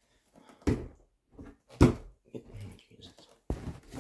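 Packaging and parts being handled during an unboxing: a few dull knocks and bumps with short rustles between them. The loudest knock is just under two seconds in, and another comes near the end.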